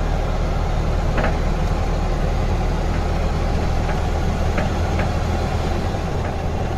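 Lorry's diesel engine running at a steady speed, a low even hum, with a few faint ticks on top.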